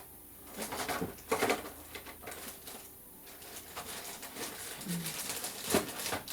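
Hands rummaging through a drawer of craft supplies, with small objects clicking, knocking and rattling against each other in irregular bursts, the loudest knock near the end.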